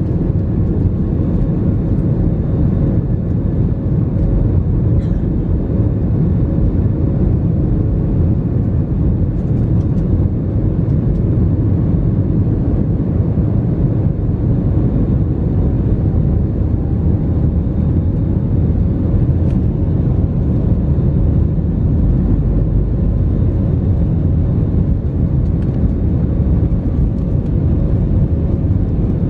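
Steady jet airliner cabin noise from the engines and rushing air: an even, loud low rumble with a faint steady hum above it, unchanging throughout.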